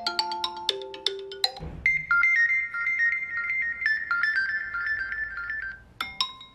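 Xiaomi POCO M3 smartphone ringtones played one after another through the phone's speaker. A melody of quick short notes cuts off about one and a half seconds in and gives way to a different tone of higher, longer chiming notes. Near the end a third melody of quick notes starts.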